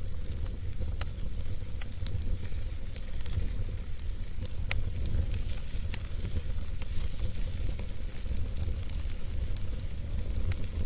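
Wood fire in a fireplace crackling: a steady low rumble and hiss with scattered sharp pops.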